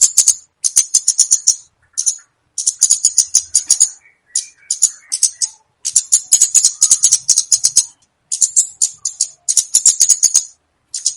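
Recorded komade bird call: fast, dry, high-pitched chattering trills in phrases of about a second, with short pauses between them and a few faint whistled notes about four seconds in.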